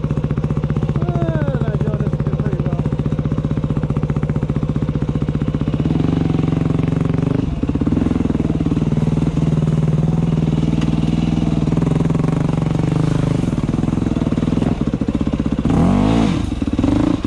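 Dirt bike engine running steadily at low speed while riding a trail, a little louder from about six seconds in, with a quick rev up and back down near the end.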